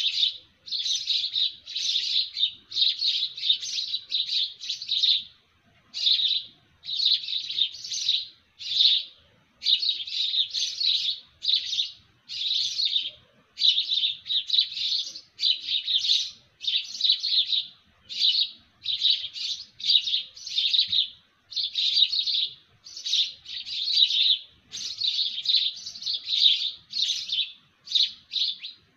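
Small birds chirping: dense, high bouts of rapid chirps about a second long, repeating one after another with brief pauses.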